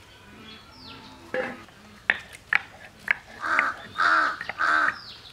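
A bird calling three times in quick succession, harsh caws of about half a second each, after a few sharp knocks.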